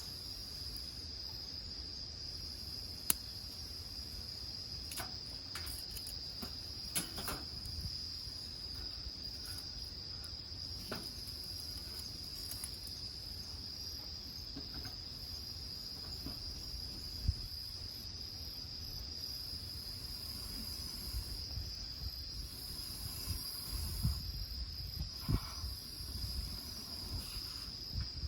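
Insects trilling steadily and without a break in one high, even tone, with sharp crackles from the burning firewood now and then.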